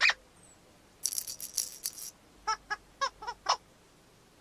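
Children's TV sound effects: a brief jingly rattling shake, then a run of about five short, high, squeaky toots.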